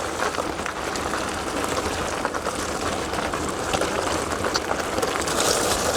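Gravel bike tyres rolling fast over a gravel trail: a steady, gritty hiss.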